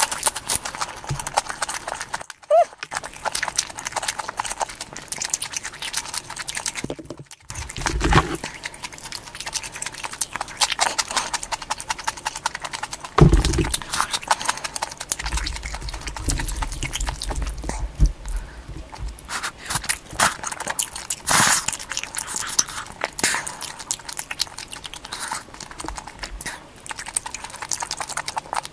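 Close-miked chewing of stir-fried vegetable gopchang (Korean intestines), with many quick wet mouth clicks and smacks and a few louder thumps.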